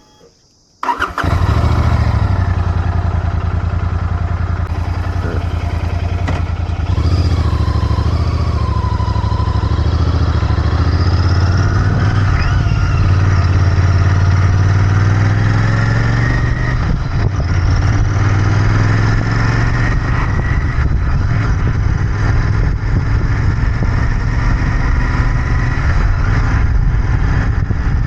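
Royal Enfield Interceptor 650's 648 cc parallel-twin engine starting with a sudden catch about a second in, then idling steadily. The note shifts a little a few times as the idle settles.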